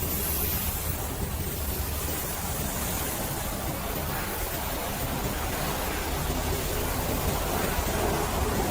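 Steady hiss of water spraying, over a constant low engine or pump hum.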